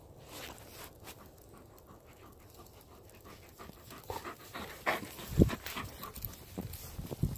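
A dog panting, with a couple of low thumps in the second half, the loudest about five and a half seconds in.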